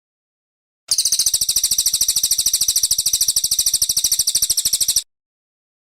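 Brown cililin (cililin coklat) singing a rapid, even, high-pitched trill of quick repeated notes for about four seconds, starting suddenly about a second in and cutting off abruptly.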